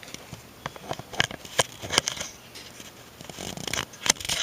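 Scattered sharp clicks and light knocks, with a brief rustle about three and a half seconds in: handling noise from the camera being fitted onto a tripod.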